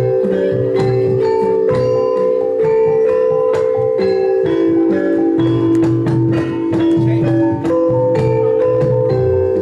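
Javanese gamelan ensemble playing: bronze metallophones struck in a quick, busy rhythm over longer ringing held notes.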